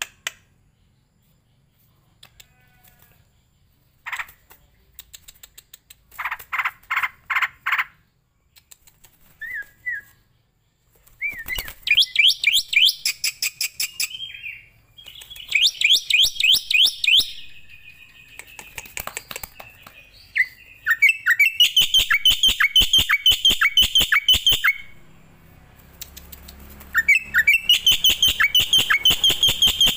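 Caged starlings and mynas calling. A few separate calls come first, then from about ten seconds in there are loud runs of rapid, sharp chattering notes, each run a few seconds long with short pauses between.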